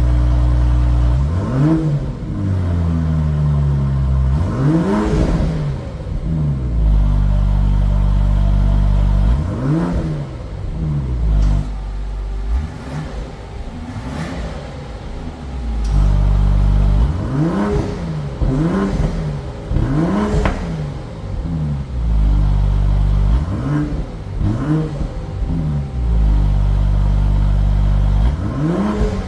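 BMW X7 40i's turbocharged 3.0-litre inline-six, breathing through an aftermarket valved exhaust, is revved again and again while stationary: each blip is a quick rise and fall in pitch, with a steady idle between. There are about a dozen blips, some singly and some in quick pairs.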